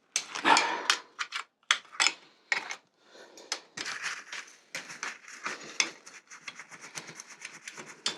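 Clicks, knocks and scraping of small metal bicycle parts and hand tools being handled as a bike is taken apart, irregular throughout with the loudest rub about half a second in.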